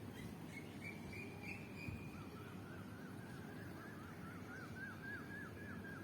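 Bird calls over a steady low background rumble: a thin whistled note, then a run of short, repeated chirps, about four a second.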